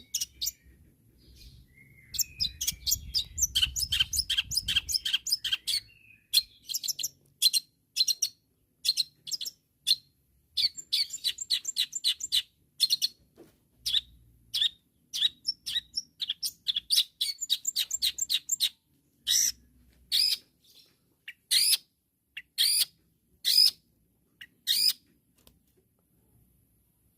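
Long-tailed shrike singing a long, varied run of short, sharp chirps, quick-fire at first and then in spaced phrases, falling silent near the end. This is the loud, full song that keepers call gacor.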